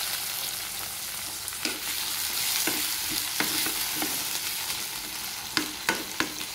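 Chopped tomatoes, onions, garlic and green chillies sizzling in hot oil in a metal kadai while being stirred. The spatula scrapes and clicks against the pan, with several sharper knocks close together near the end.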